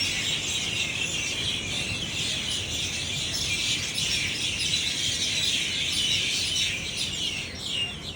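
Many small birds chirping and calling at once in a dense, continuous chorus of short overlapping chirps.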